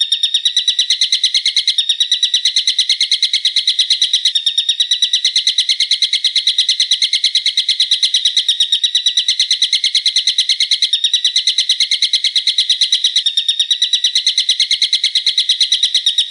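A bird calling in a fast, sharp, unbroken series of high notes, about seven a second, with no let-up.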